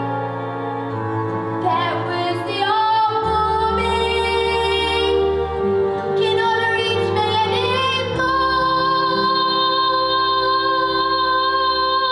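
A young girl singing a slow solo ballad over a sustained instrumental backing, holding a long note through the last few seconds.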